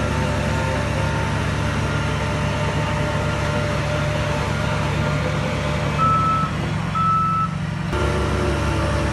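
Heavy diesel earth-moving machinery running steadily, with a reversing alarm giving two high beeps about a second apart near the end.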